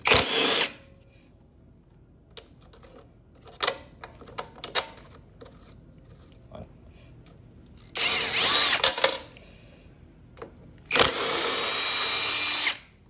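A handheld power driver runs in three short bursts with a whine: briefly at the start, for about a second eight seconds in, and for nearly two seconds about eleven seconds in. It is backing bolts out to take the carburetor off a small mower engine. Light clicks and knocks of tools and parts fall between the bursts.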